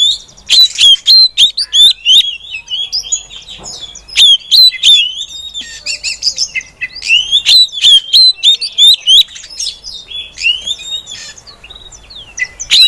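Female oriental magpie-robin (kacer) calling in fast runs of short, sharply swept chirps, several a second, broken by brief pauses.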